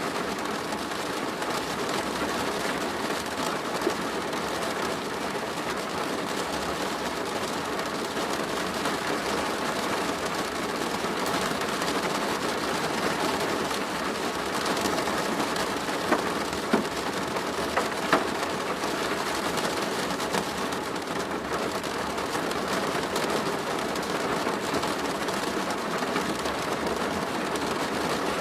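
Steady rain drumming on a plastic roof, with a few louder single drops striking a little over halfway through.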